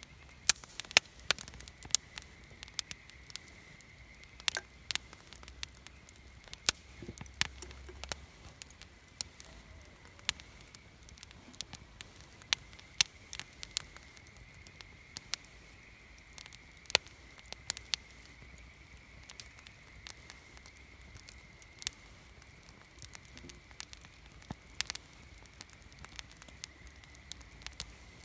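Wood campfire crackling, with irregular sharp pops and snaps, some louder than others, over a low steady background.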